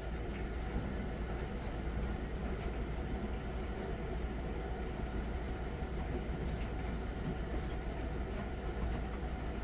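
Miele Novotronic W921 front-loading washing machine running mid-cycle on its easy-care 40°C programme: a steady low rumble with a few faint ticks.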